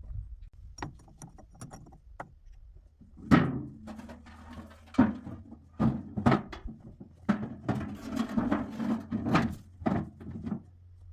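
A series of knocks and thuds, the loudest about three seconds in, then one every half second to a second, after a few faint clicks.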